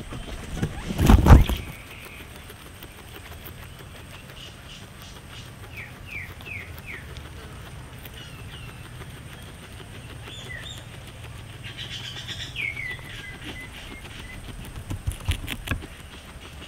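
Small birds chirping in short falling notes in the background, over a low steady hum. There is a loud bump about a second in, and a quick run of clicks near the end as the guinea pig moves among the grass stalks.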